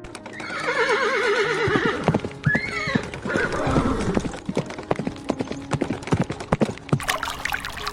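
A horse whinnies, one long wavering neigh that falls in pitch, followed by a run of hoof clip-clops.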